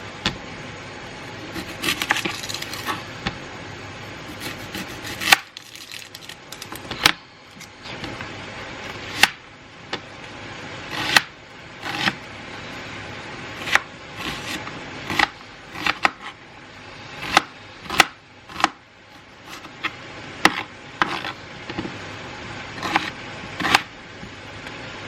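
Knife chopping onion on a chopping board: sharp, irregular chops, roughly one a second, some coming in quick pairs.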